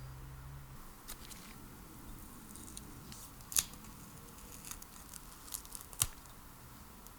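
Small clicks and ticks of metal parts and hand tools being handled on a workbench during the teardown of an old electric drill, with two sharper ticks about three and a half and six seconds in. A low steady hum stops within the first second.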